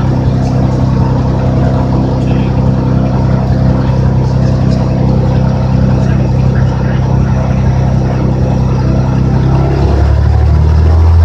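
Cessna 206's piston engine and propeller running at a steady power setting; about ten seconds in the tone shifts lower and grows slightly louder as the power setting changes.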